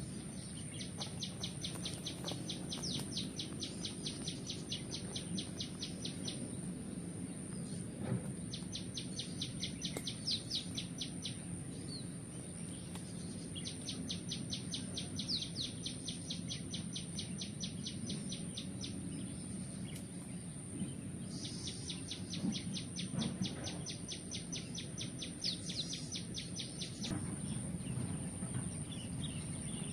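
Outdoor ambience with four spells of a rapid, high-pitched trill, each lasting a few seconds with short gaps between them, over a steady very high whine and a low background rumble.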